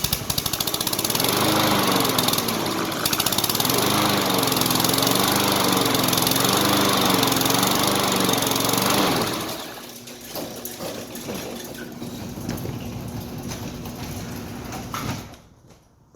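Briggs & Stratton 190cc engine on a Troy-Bilt TB330 lawn mower running just after starting, its speed surging up and down, a sign that fuel has not yet fully filled the freshly cleaned carburetor. About nine seconds in the sound drops to a much quieter, steadier level, and it falls away sharply near the end.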